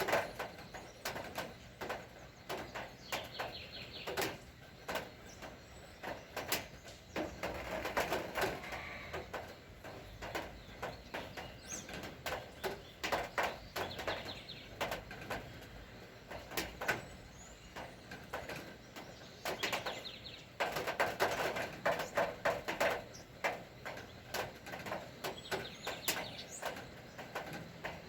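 Rain dripping in scattered, irregular drops, with birds calling in several bursts of chatter.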